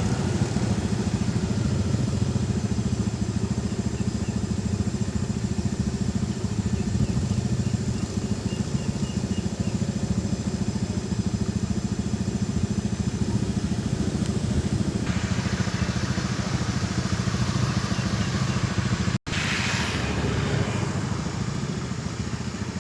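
A small engine running steadily, with an even pulsing drone; the sound cuts out for an instant about 19 seconds in.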